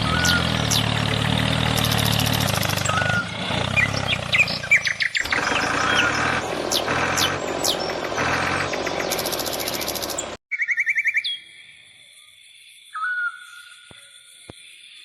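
Birds chirping and tweeting, repeated short calls, over a steady low mechanical hum for the first ten seconds or so; the hum and background cut off suddenly, leaving the chirps quieter.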